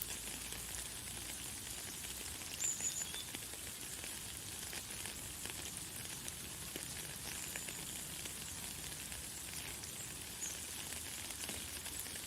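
Light, fine rain falling steadily, a dense patter of small drops. A bird gives a few brief high chirps, the clearest about three seconds in.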